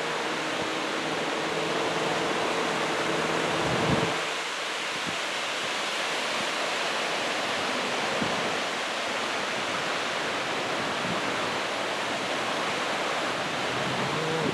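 Steady roar of heavy surf breaking on a beach, with some wind. A low steady hum runs under it for the first four seconds and stops.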